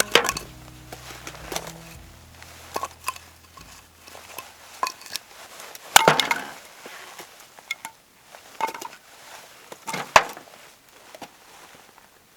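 Irregular clinks and knocks of small hard objects being handled, loudest just after the start, about six seconds in and about ten seconds in. Background music with low held notes fades out in the first few seconds.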